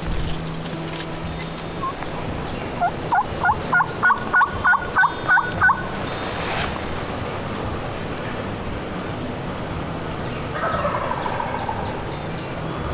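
A series of about ten loud, evenly spaced calls, about three a second, then a wild turkey gobbler gobbling more faintly from the roost later on, the gobble falling in pitch.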